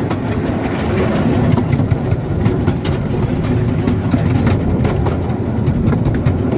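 Small-gauge light railway train running along the track, a steady low rumble of wheels on rail with scattered clicks, heard from on board.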